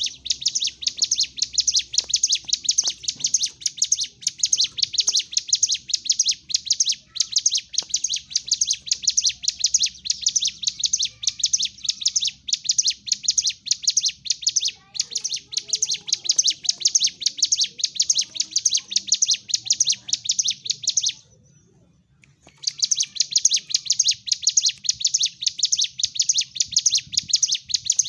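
Ciblek gunung, a small prinia, singing its rapid 'fighting' song: a fast, unbroken stream of high, sharp chirps, several a second. The song breaks off briefly about two-thirds of the way through, then resumes at the same pace.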